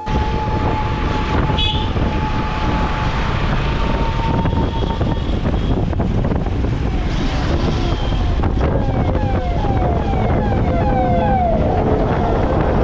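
Wind rush and motorbike noise on the open road. A steady horn-like tone sounds through the first few seconds, then a run of quick, siren-like falling notes, about two a second, comes near the end.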